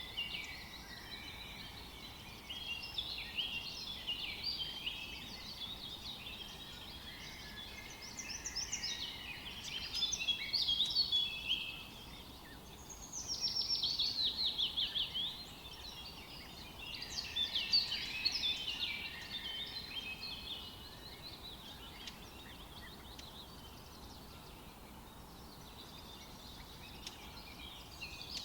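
Several songbirds chirping and singing in overlapping phrases. About halfway through comes a loud burst of rapid, repeated falling notes, and the song thins out for a while in the last third.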